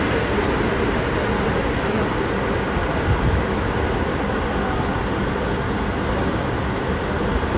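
Seibu 6000 series electric train running between stations, heard from inside the car as a steady rumble of wheels on rail.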